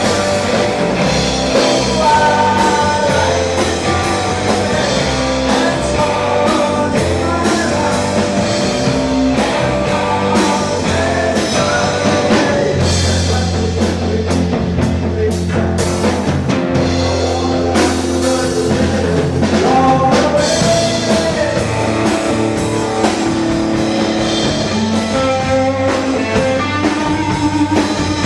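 A live rock band playing, with guitar, drum kit and a singing voice.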